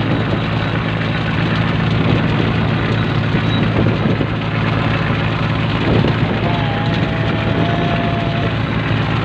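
A cantrang fishing boat's inboard diesel engine running steadily, a constant low hum under a noisy wash. A faint wavering tone comes in about two-thirds of the way through.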